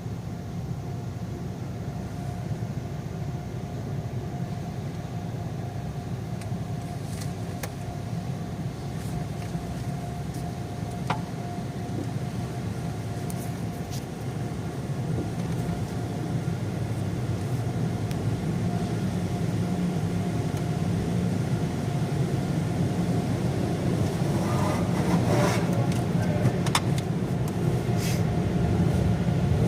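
Automatic car wash machinery heard from inside the car: a steady low rumble with a constant hum that grows louder from about halfway, with a burst of spraying hiss and a few knocks near the end.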